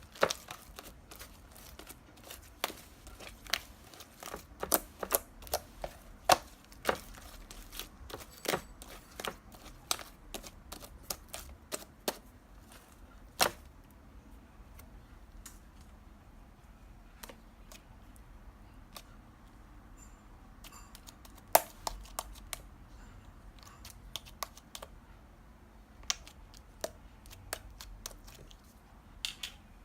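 Irregular sharp clicks and taps, dense at first, thinning out for several seconds in the middle, then picking up again.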